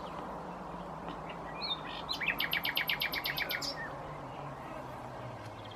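Common nightingale singing one phrase: a short note, then a fast run of about a dozen repeated notes lasting about a second and a half. A faint low hum, slowly falling in pitch, runs underneath.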